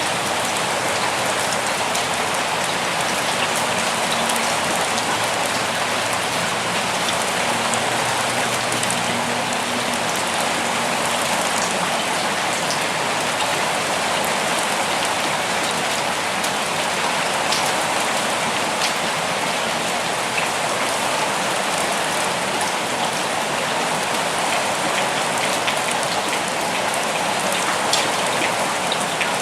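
Steady rain falling, an even hiss with many small drop ticks and no change in intensity.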